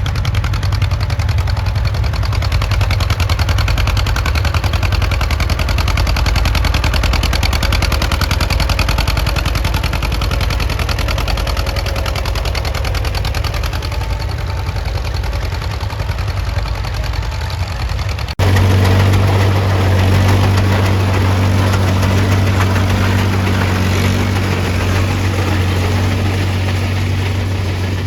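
Antique tractor engine running steadily. About two thirds of the way through, the sound breaks off abruptly and comes back as a louder, steadier low drone.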